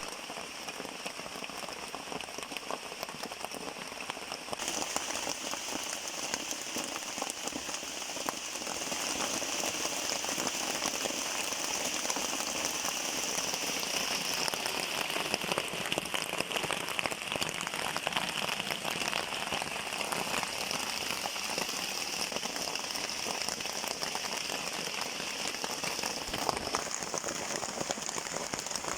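Steady rain, a dense spread of small drops hitting a surface; it grows a little louder about four seconds in and again around eight seconds in.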